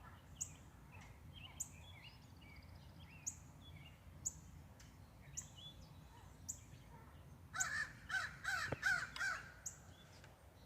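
Crows cawing: a quick run of about six harsh caws in the second half. Throughout, a faint high chirp repeats about once a second.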